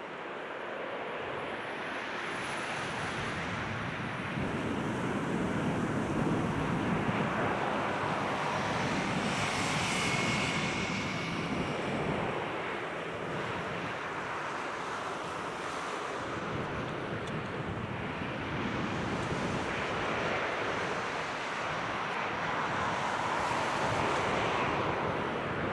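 Jet engine noise of a Boeing 787-9 on takeoff: a steady rushing sound that swells and eases several times, with a brief high whine about ten seconds in.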